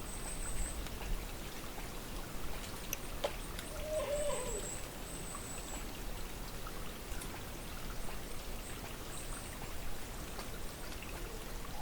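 A distant, unidentified animal gives one short call that falls in pitch about four seconds in, over a steady background hiss. Faint high bird chirps come and go, and there is a single click near the three-second mark.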